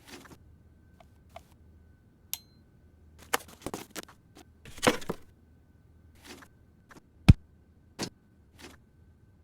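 Irregular clicks and short scrapes of small hard objects being handled, busiest about three to five seconds in, with a sharp click about seven seconds in.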